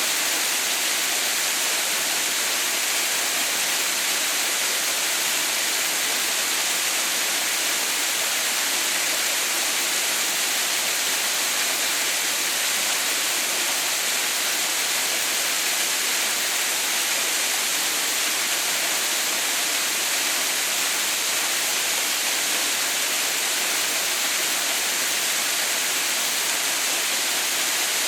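Water pouring down the Haha no Shirataki (Mother's White Waterfall), a steady, even rush with no breaks or changes.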